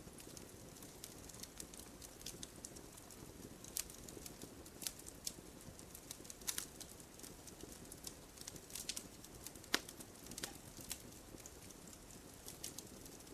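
Wood fire burning with irregular crackles and small pops over a faint low hiss, one sharper snap a little past the middle.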